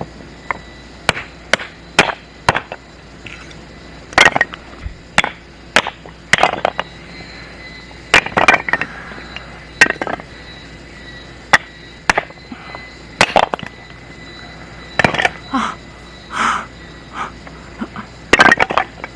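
Firewood being split by hand: irregular sharp knocks and cracks of wood, some short and some ringing briefly.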